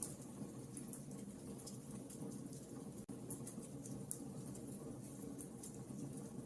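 Wood fire crackling: irregular sharp pops and snaps over a soft, steady rush of flame.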